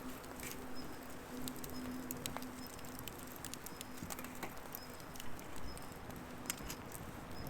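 Firewood burning in an open bonfire, crackling with irregular sharp pops and snaps over a low hiss. A faint steady hum and a short high chirp repeating about once a second run underneath.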